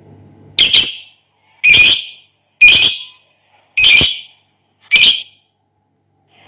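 Lovebird giving five loud, harsh calls, evenly spaced about a second apart, each short with a fading tail.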